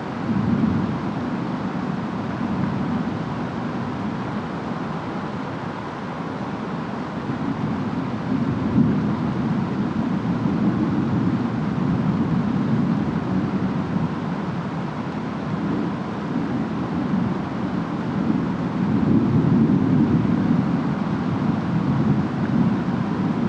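Distant thunderstorm: a steady hiss of rain and wind under a low rolling rumble of far-off thunder that swells and fades about three times.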